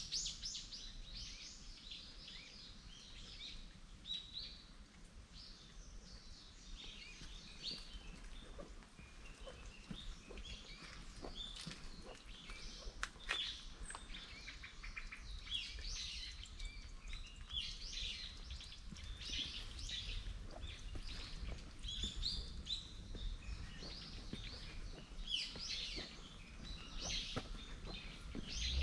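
Several small birds chirping and calling in quick, short notes, one call after another, over a faint low steady rumble.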